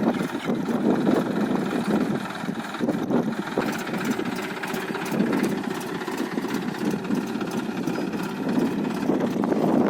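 Massey Ferguson 1035 tractor's diesel engine running steadily.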